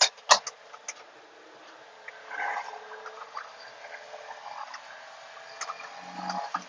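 Cab noise from a 1995 Honda 4x4 Japanese mini truck on the move: a steady hum of engine and road, with a few sharp clicks and rattles and a brief swell about two seconds in.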